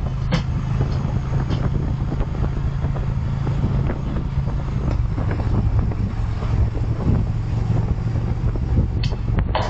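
Steady road and engine drone heard inside a moving car driving in the rain, with a rushing hiss over it and scattered faint ticks. The drone drops slightly in pitch about halfway through.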